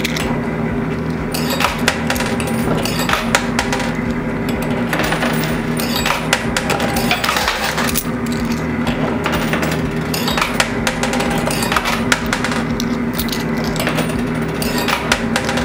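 Quarters clinking and dropping in a coin pusher machine, with many sharp metallic clicks over the machine's steady arcade hum.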